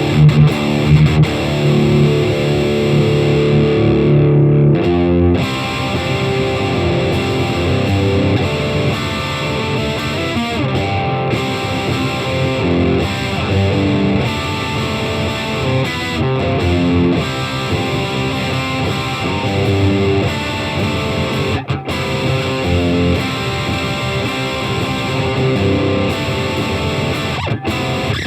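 Electric guitar in D standard tuning played through a Fender Champion 100 amp with no pedals. It holds low chords for the first few seconds, breaks off briefly, then plays a faster-moving riff.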